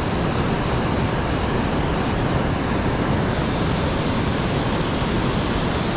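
Steady, even rush of a fast-running, rain-swollen river.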